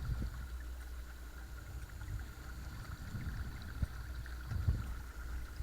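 Watersnake T24 12 V electric trolling motor running steadily on its second speed setting, a constant whine over water rushing and gurgling along a kayak's hull. A couple of low knocks come about four and five seconds in.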